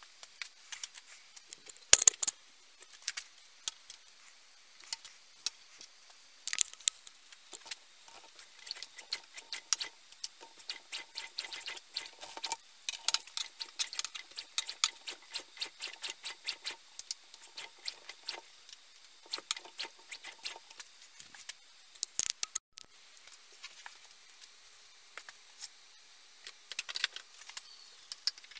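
Irregular clicks, taps and light scraping of small metal parts being handled and worked on, with a couple of louder knocks about two seconds in and near 22 seconds.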